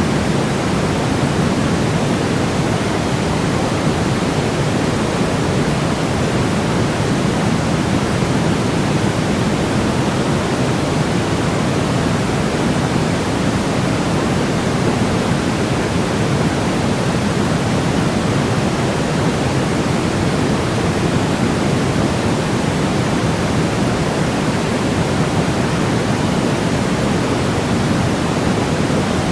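Sleep-aid noise track: a steady, unchanging hiss, fuller in the low end than in the highs, with no rhythm or breaks.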